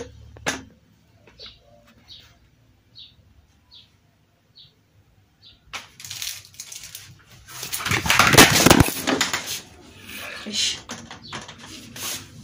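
Faint, short bird chirps, about one every second. Then, about six seconds in, loud rustling and knocking from the phone being handled close to its microphone, loudest a couple of seconds later.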